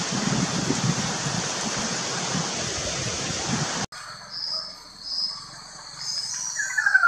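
Rushing noise with wind buffeting the microphone, cut off abruptly about four seconds in. Then faint high bird notes repeat several times, and near the end a loud bird whistle begins, gliding downward in pitch.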